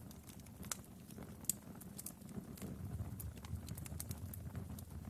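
Wood fire crackling, with sharp irregular pops over a low, steady rumble.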